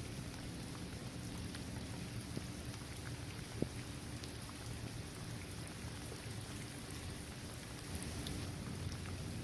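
Steady rain falling on a basketball court, trees and grass, with scattered drops ticking and one sharper drop hit about a third of the way in, over a low steady rumble.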